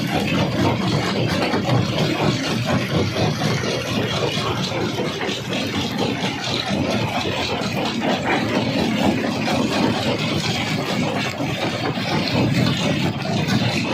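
Jaw crusher running steadily, a heavy machinery drone with a constant dense rattle and crackle of stone being crushed.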